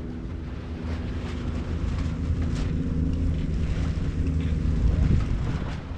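A boat's engine running steadily, a low even hum, with wind buffeting the microphone.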